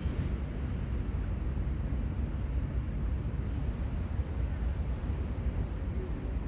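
Steady low rumble of open-air seaside ambience, with faint high chirps now and then.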